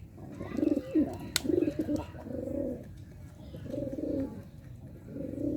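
Domestic pigeons cooing in low, warbling phrases, three runs of calls, the first and longest starting about half a second in. A single sharp click sounds about a second and a half in.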